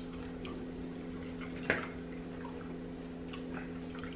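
Close-miked chewing of fried chicken: soft wet mouth sounds and small crunches, with one sharper click about a second and a half in, over a steady low hum.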